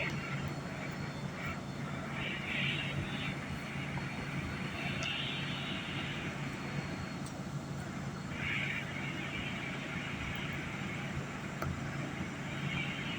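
Interior of an R211A subway car held short of a station: the car's equipment gives a steady low hum over a general rumble, with several short bursts of hiss every few seconds.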